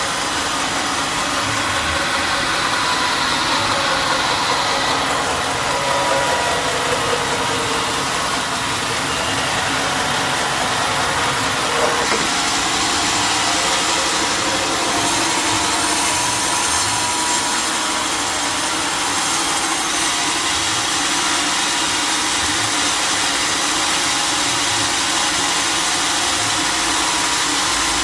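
Sawmill machinery running steadily, a whining tone sinking slowly in pitch over the first several seconds, with a brief knock about twelve seconds in.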